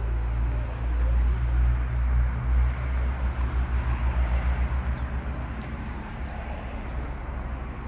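Audi 100 Coupé S's four-cylinder engine idling, a low rumble from the exhaust that pulses in a steady rhythm a few seconds in.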